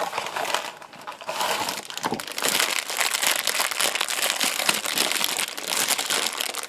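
Foil blind-box bag of a Funko Mystery Mini crinkling as it is handled and squeezed to feel the figure inside. The crinkling thickens into a steady rustle from about a second in.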